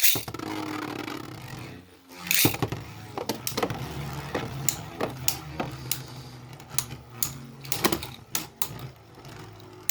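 Two Beyblade spinning tops, one of them 3D-printed, whirring as they spin in a plastic stadium, with repeated sharp clacks as they collide, about one or two hits a second.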